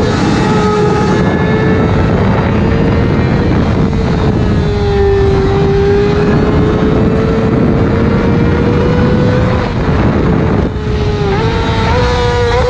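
Motorcycle engine running hard at steady high revs with heavy wind rush. The pitch wanders slowly, dips briefly a little after ten seconds, then climbs again near the end.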